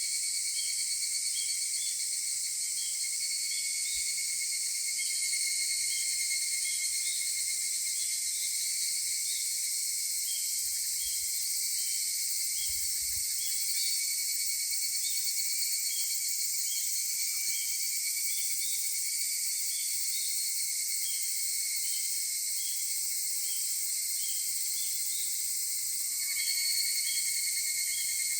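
Chorus of higurashi (evening cicadas, Tanna japonensis) calling together in a steady, high-pitched trilling drone. Short, high repeated notes come through it about twice a second.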